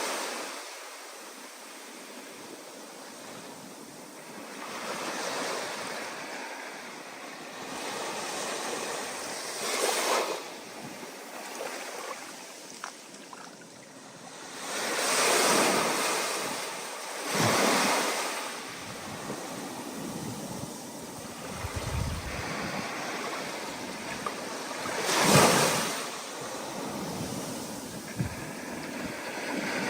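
Stormy ocean surf, with waves surging and breaking in repeated swells, the loudest near the end, over steady wind noise.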